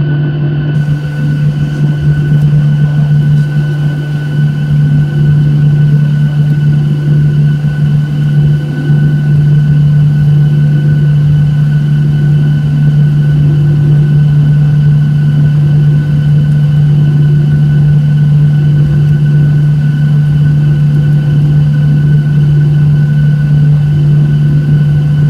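Boeing 737-800 cabin noise: the CFM56 turbofan engines' steady drone and rumble, with a steady high whine over it and no change in pitch.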